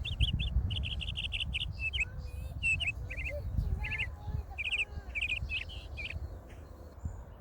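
Small birds chirping in quick repeated series of high notes, busiest in the first two seconds and sparser after, over a steady low rumble.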